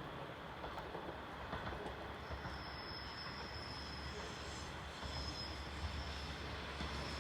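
A train approaching on the rails, its rumble slowly growing louder, with a thin high squeal coming and going from about two seconds in.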